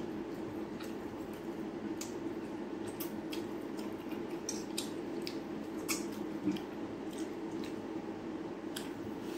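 Wet chewing and lip-smacking clicks of a person eating chicken curry by hand, a scattering of sharp short clicks, over a steady low hum.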